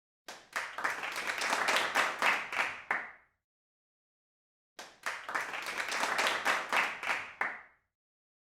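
Two bursts of rapid clapping, each about three seconds long, with dead silence between them.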